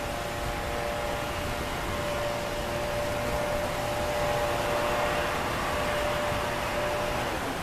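Steady hiss with a steady humming tone that stops near the end.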